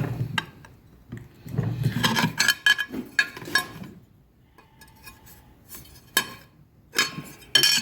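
Fly press tooling tapping the 2 mm steel plate in a run of light, ringing metallic clinks, with a few more separate strikes near the end. These are shallow blows tracing leaf-vein lines into the steel.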